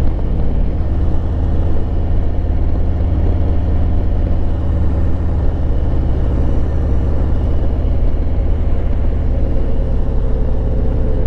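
Harley-Davidson Road Glide Limited's Milwaukee-Eight 114 V-twin running steadily while the motorcycle is ridden on the road.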